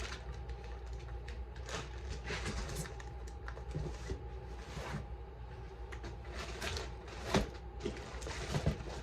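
Rustling and soft knocks of items being handled and lifted out of a cardboard box, with a sharper knock about seven seconds in, over a steady low hum.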